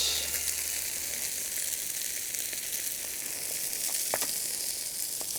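Chicken sizzling on a hot iron griddle: a steady high hiss, with a faint tick about four seconds in.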